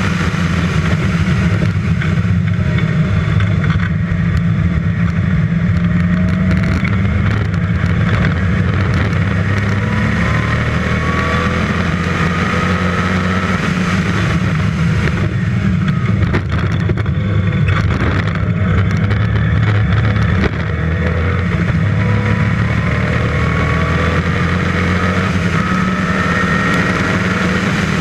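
The Westfield's 5-litre V8 engine running hard under load at track speed, a deep rumble whose pitch climbs twice as the car accelerates through the gears.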